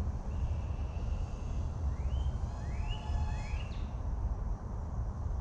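Steady low wind rumble on the microphone. About two seconds in come three short rising whistles, one after another.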